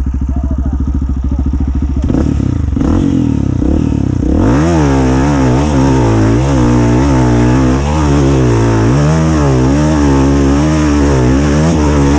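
Dirt bike engine running at low revs, then from about four seconds in revving up and down again and again, its pitch rising and falling every second or so.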